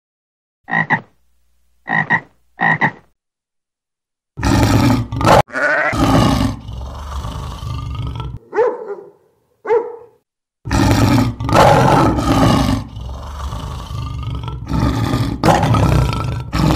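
A tree frog croaking three short times in the first three seconds, then, from about four seconds in, a lion roaring in long, rough bouts, with two short grunts in a brief pause near nine seconds.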